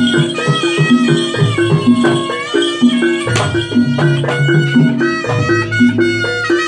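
Live East Javanese jaranan ensemble music: a bending, wavering lead melody over a repeating pattern of low tuned percussion notes and drums.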